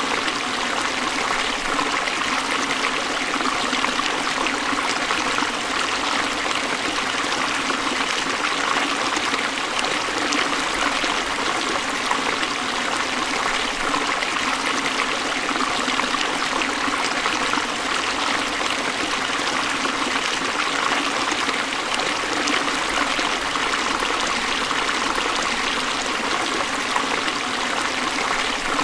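Forest stream flowing over rocks: a steady rush of running water, with fine splashing and trickling.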